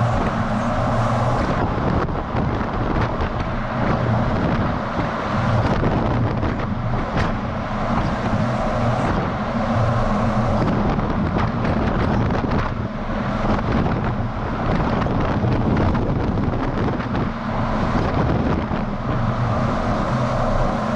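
DAF XF semi-truck driving, picked up by a camera mounted on the outside of the truck: a steady engine hum under constant road and wind noise on the microphone.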